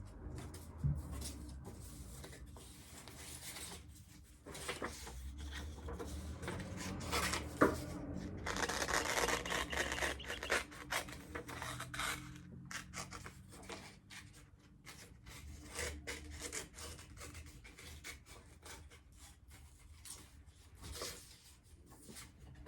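Scissors cutting paper, with the paper rustling as it is turned: irregular snips and rustles, busiest a little past a third of the way in, with one sharp click just before that.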